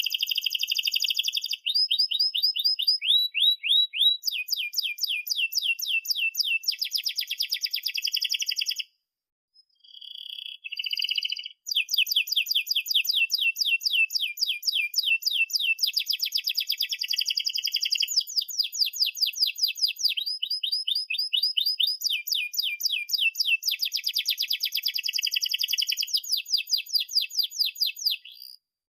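Domestic canary singing a long, continuous song of rolling trills: fast runs of repeated high notes that switch to a new phrase every second or two, with two short breaks near the middle.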